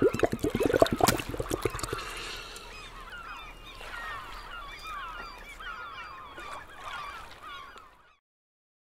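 Cartoon sound effects: a rapid pulsing run for about two seconds, then many short overlapping bird calls, like a flock of birds, fading out near the end.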